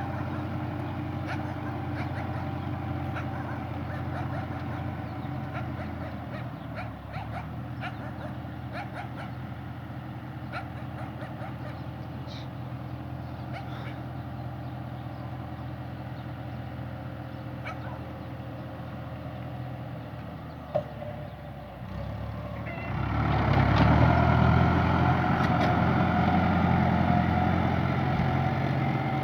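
Fendt tractor engine running steadily, with scattered light ticks and rattles; about 21 s in there is a single sharp knock, and soon after the engine gets louder and fuller, as if under more throttle or load.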